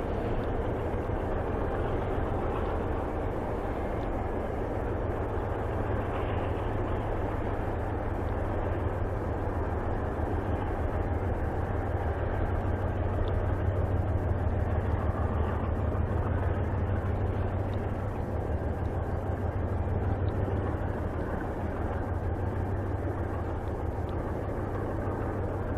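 Freight train rolling past with a steady low rumble and hum, swelling to its loudest about halfway through and then easing off.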